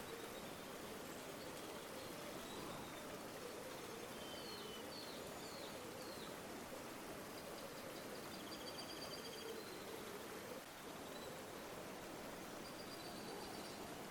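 River water flowing with a steady rush, while small birds call over it: a few short chirps a few seconds in, a rapid trill in the middle and another near the end.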